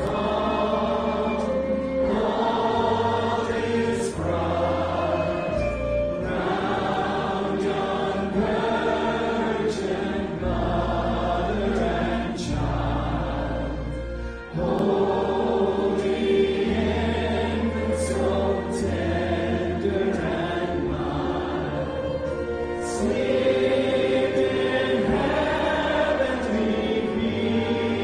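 Church congregation and choir singing a Christmas carol together with instrumental accompaniment, over sustained low bass notes. There is a short break about halfway through before the singing resumes.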